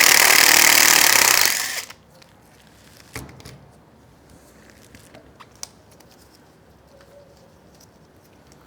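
Power driver with a T30 Torx bit spinning out a screw, running for about two seconds and then stopping abruptly. A few light clicks of parts being handled follow.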